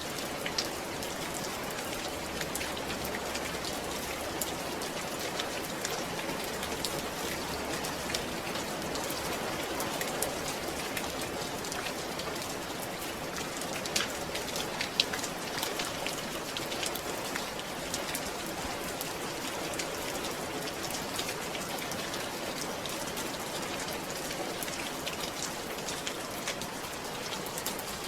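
Steady rain falling, with sharper individual drop hits now and then, the loudest two about halfway through.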